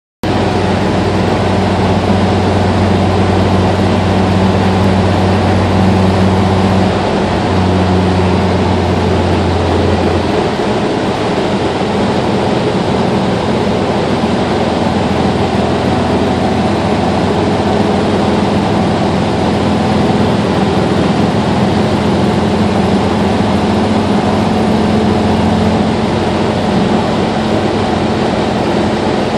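Steady vehicle noise: an engine running under a dense rushing noise, with a low hum that drops out about ten seconds in.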